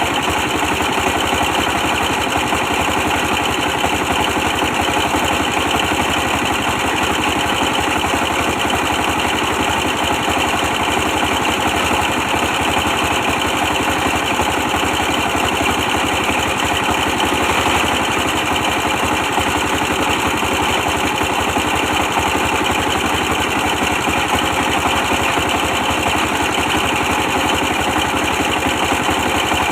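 Old 24 hp diesel engine running steadily, with a fast, even beat throughout.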